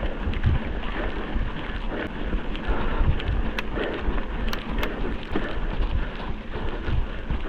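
Wind buffeting the microphone over the rolling noise of a mountain bike on a dirt trail, with low thumps and a scattering of sharp rattles and clicks.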